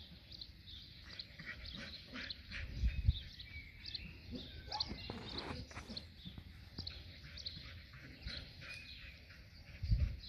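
Small birds chirping and twittering in the background, many short high calls overlapping. A low rumble comes about three seconds in and again near the end.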